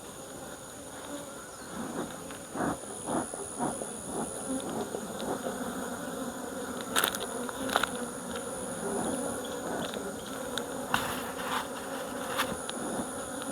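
Honeybees buzzing steadily in an opened hive, with scattered sharp clicks and knocks. The beekeeper judges this colony weak.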